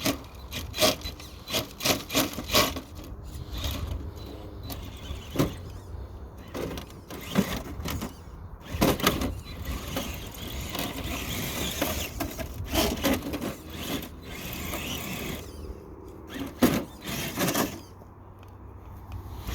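RC crawler truck on swamper tyres inching over sand and rocks under light throttle: irregular crunching, scraping and clicking of tyres and chassis against the ground.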